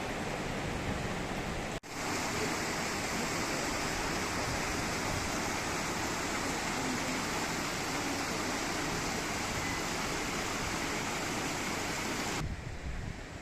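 Steady rushing of flowing water, starting after a brief break about two seconds in and dropping away near the end.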